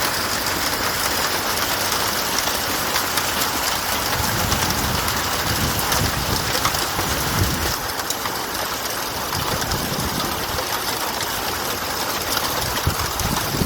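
Heavy rain mixed with hail pelting down: a dense, steady hiss full of small sharp impacts. A low rumble swells underneath for a few seconds in the middle.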